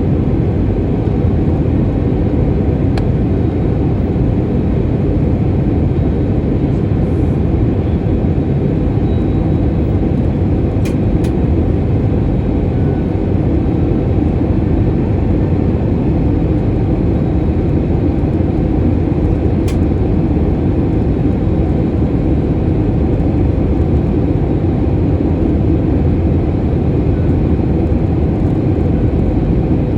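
Steady, loud drone of an airliner's engines and rushing air heard inside the passenger cabin in flight, an even low roar that holds without change.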